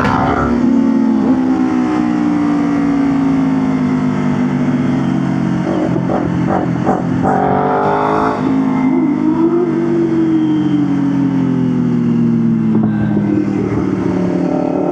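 Motorcycle engine running under way. The revs sink slowly, break up briefly about six seconds in, climb sharply about eight seconds in, then ease down steadily again.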